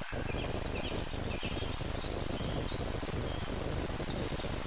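Faint bird chirps over the steady hiss of an old film soundtrack.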